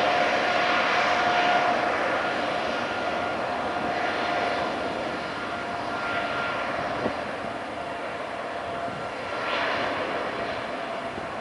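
Jet airliner engines passing, a loud rushing roar with a steady whine that slowly fades away.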